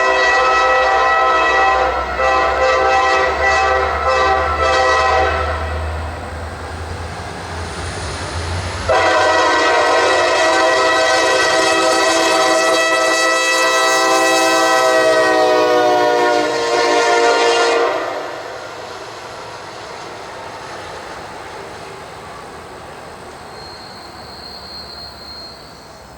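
Diesel locomotive horn sounding a chord in blasts over the deep rumble of the engine: a first blast that breaks briefly about two seconds in, then a long blast from about nine seconds whose notes slide down in pitch as the locomotive passes. After the horn stops about eighteen seconds in, the sound of the passing train fades away.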